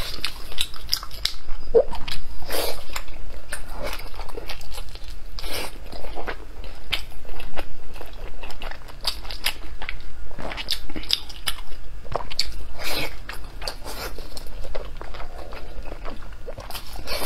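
Close-miked wet chewing and lip-smacking of soft, gelatinous braised pork skin soaked in chili oil: an irregular run of sticky clicks and smacks.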